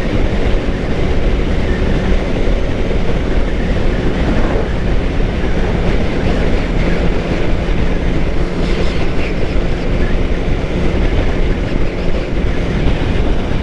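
Wind rushing over the rider's microphone, with a 2013 Suzuki GSX-R 600's inline-four engine running steadily at cruising speed underneath.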